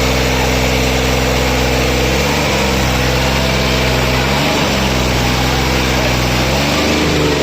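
New Holland 55 hp diesel tractor engine running steadily, its pitch briefly wavering three times, about two seconds apart.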